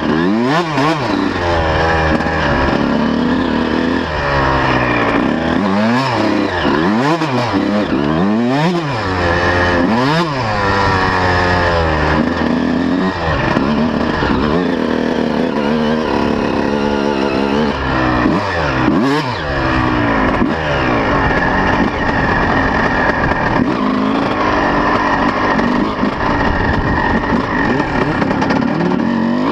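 125 cc two-stroke motocross bike engine being ridden hard, revving up and dropping back again and again. The pitch climbs and falls in quick sweeps, several times in the first half, then holds steadier for a while before the sweeps return.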